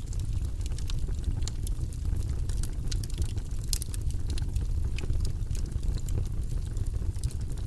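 Wood logs burning in a fireplace: a steady low rumble of the flames with frequent sharp crackles and pops of the burning wood.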